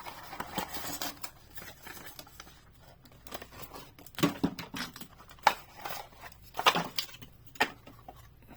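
Cardboard box and paper inserts being handled and pulled out, rustling, with several sharp clicks and taps in the second half.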